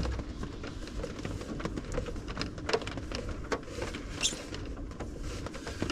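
Quiet rubbing and handling noises as a box is wiped clean by hand, with scattered light clicks and taps and a brief hiss about four seconds in.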